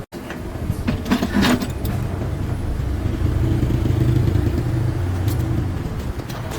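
A motor-driven machine running with a steady low hum, with a few sharp knocks about a second in.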